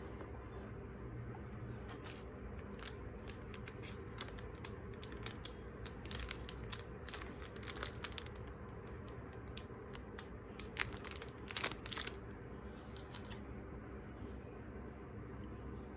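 Packaging being opened and handled: irregular crinkling, rustling and sharp clicks, coming in clusters for most of the stretch and then stopping near the end, over a steady low room hum.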